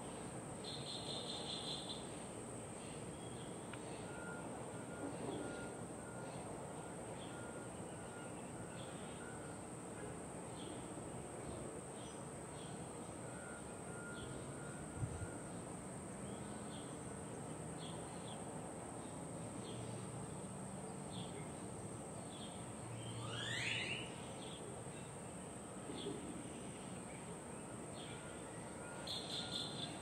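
Birds chirping over a steady outdoor background hiss, with short high calls every second or so. There is a quick burst of rapid notes near the start and again near the end, and one rising call about three-quarters of the way through.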